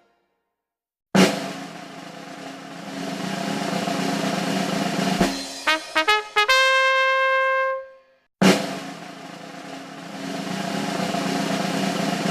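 A drum-roll-and-fanfare music sting: a snare drum roll swells louder for about four seconds, ends in a few short brass stabs and a held trumpet note. It starts over again about eight seconds in.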